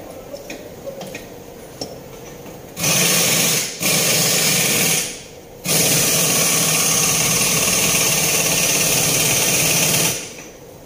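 Electric power tool running in three bursts: a short one about three seconds in, a second that winds down, then a steady run of about four seconds that stops near the end.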